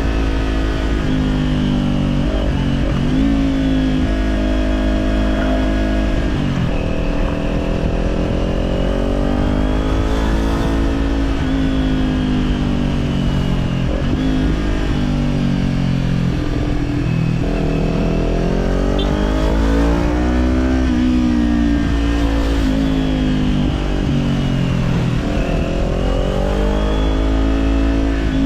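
Kawasaki Z400 parallel-twin engine through an Orion Katya slip-on exhaust, heard from the bike while riding. The engine pitch rises under throttle and drops sharply at gear changes, again and again, over a steady low rumble.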